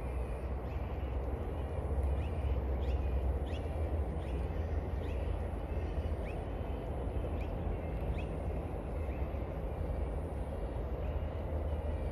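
Steady low rumble of a train on the line, with short bird calls scattered over it every second or so.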